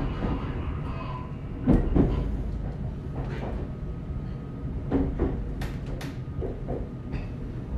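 Interior of an ET127-series electric train car running on rails: a steady rumble, with pairs of knocks as the wheels cross rail joints about two seconds in and again around five seconds in.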